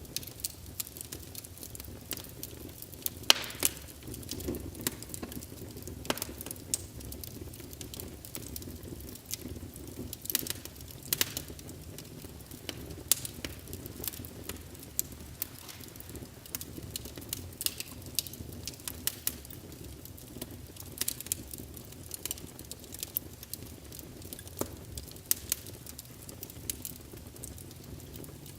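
Wood fire burning in a fireplace: logs crackling with irregular sharp pops over a low steady rush of flame, with a louder pop about three seconds in.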